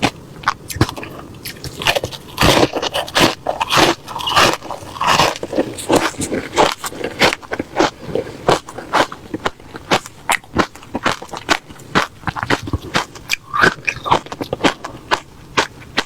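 Close-up crunching of refrozen crushed ice being bitten and chewed, a fast, irregular run of sharp cracks and crackles.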